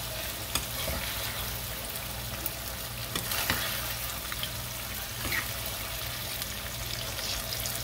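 Ackee and saltfish sizzling steadily in a frying pan while a spoon stirs it, with a few scrapes and taps of the spoon against the pan.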